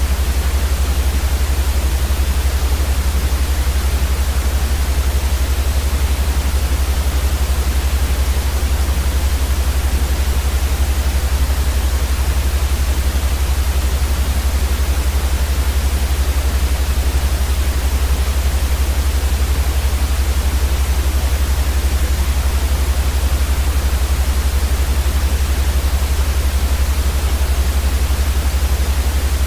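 Steady white noise for baby sleep: an even, unchanging hiss across all pitches with a stronger low rumble underneath.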